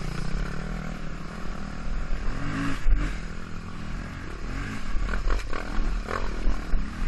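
Dirt bike engine running under way, its revs rising and falling a few times, with clattering and scraping over the top.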